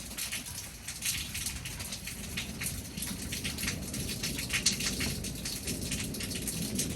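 Thunderstorm rain falling, with many separate drops striking a nearby surface in quick succession.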